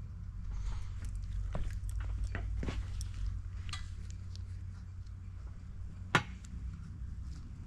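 Light clicks and clinks of metal tools and engine parts being handled during hand assembly work, with one sharper tap about six seconds in, over a steady low hum.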